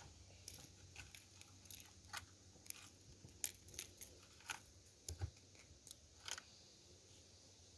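Faint, irregular light clicks and ticks, about a dozen, over near silence.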